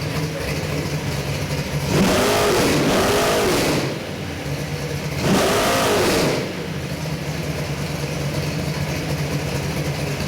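Oldsmobile 455 V8 crate engine with a mechanical roller cam idling steadily, revved up twice, about two seconds in and again about five seconds in, each rev held for a second or two before dropping back to idle.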